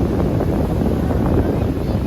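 Strong wind buffeting the microphone, a steady low rumbling blast of noise.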